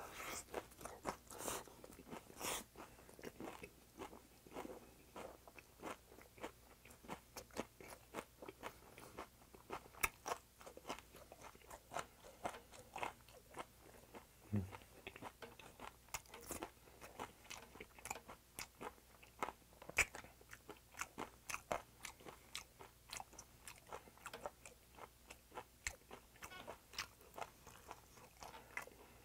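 Close-miked chewing and mouth smacking of a man eating raw silver pomfret wrapped in lettuce: many short, irregular wet clicks and smacks, several a second, fairly quiet.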